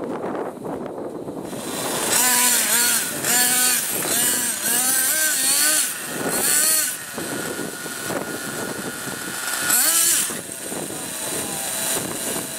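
Nitro RC monster truck's small two-stroke glow engine revving hard in a run of quick throttle bursts, its pitch swooping up and down. After about 7 s it eases to a lower, steadier running, then gives one more sharp rev near 10 s.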